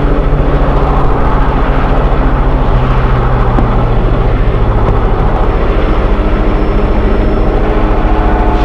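Train engine running steadily: a loud, low drone with a fast, even pulse, its lowest tones sinking slightly after a few seconds.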